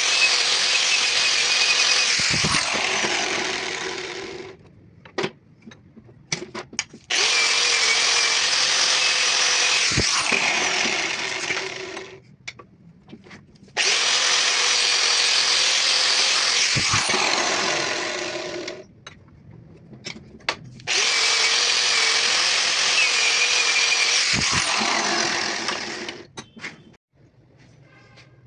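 A handheld electric power tool run in four bursts of about four to five seconds each, each starting abruptly and winding down at the end, with small clicks and knocks in the pauses between.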